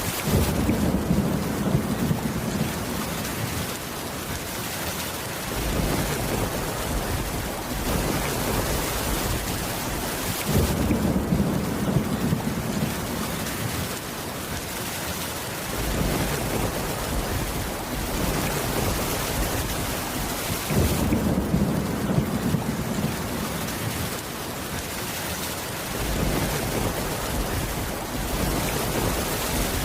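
Steady heavy rain with low rolls of thunder that swell up about every ten seconds, three times over.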